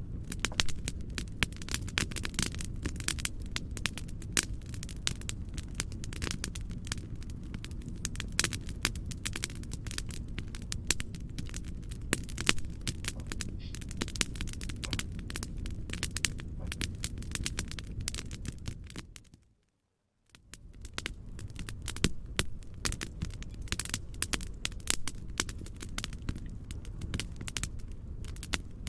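Wood fire crackling: dense, irregular pops and snaps over a steady low rumble. About twenty seconds in it fades out to silence for about a second and fades back in.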